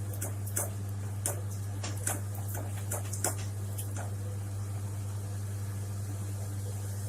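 Onion-tomato masala and water cooking in a kadai on full flame, spluttering with scattered sharp pops, more often in the first few seconds, over a steady low hum.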